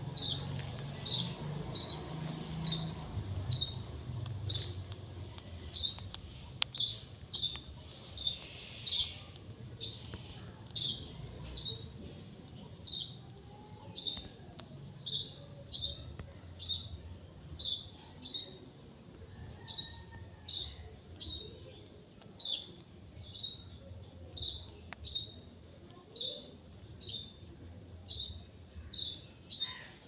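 A bird chirping, a short high chirp repeated evenly a little more than once a second.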